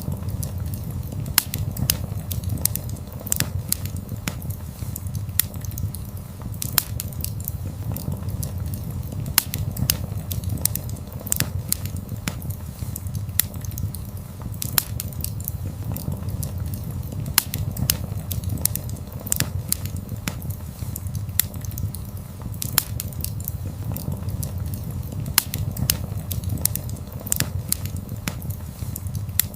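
Wood fire crackling, with frequent sharp, irregular pops and snaps over a low, steady rumble of burning.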